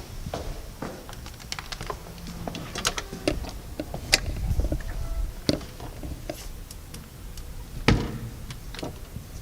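A string of irregular sharp clicks and knocks over a low rumble, the loudest knock about eight seconds in.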